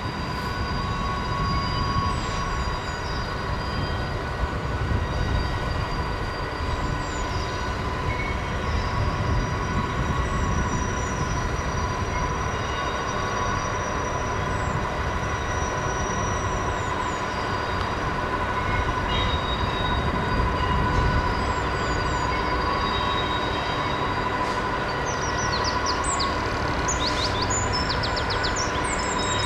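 Train rolling past with a continuous low rumble and steady high-pitched squealing from its wheels.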